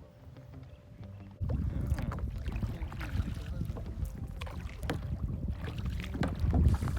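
Kayak paddles splashing in river water, with wind buffeting the microphone. The sound cuts in abruptly about a second and a half in, after a quieter start.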